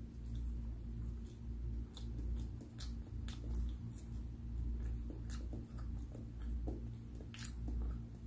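A person chewing food close to the microphone, with irregular short mouth clicks.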